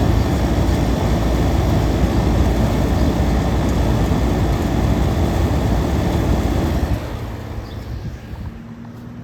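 1982 Carrier International series window air conditioner running close up: the condenser fan blowing air with a steady low hum, running smoothly. The sound drops off sharply about seven seconds in.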